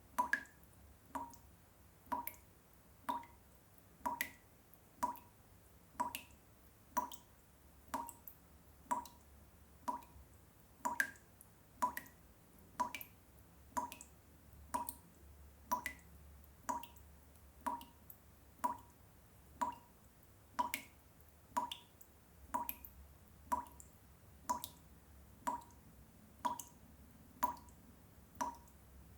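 Water drops dripping in a steady, repetitive rhythm, about one louder drop a second with softer drops in between, each a short pitched drip.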